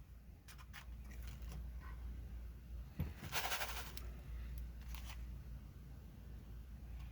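A container of BBs being handled and set down, with scattered small clicks and a brief burst of rattling BBs about three and a half seconds in.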